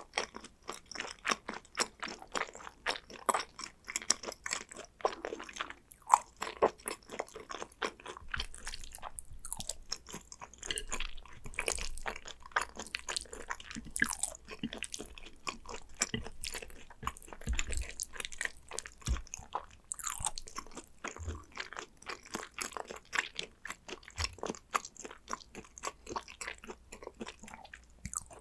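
A person chewing and biting hanwoo yukhoe (Korean raw beef tartare) and its side foods, a quick, irregular run of small crunches and clicks.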